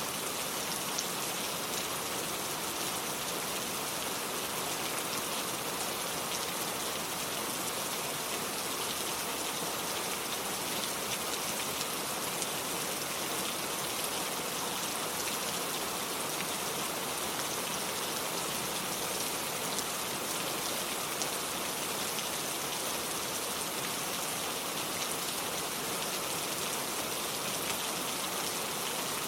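Steady rain falling and spattering on hard surfaces, an even hiss with fine drop patter throughout.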